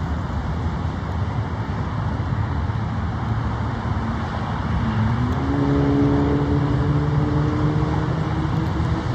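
Small private plane's engine droning over a steady rumble of outdoor noise. About four to five seconds in, a tone rises slightly in pitch and then holds steady.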